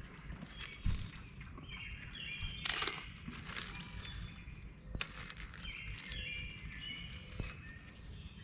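Birds calling in short repeated chirps over a steady high insect trill, with a few sharp clicks and a brief rustle about three seconds in.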